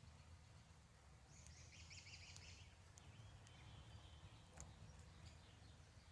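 Near silence: faint background hum, with brief faint high chirping about a second in and a few soft clicks.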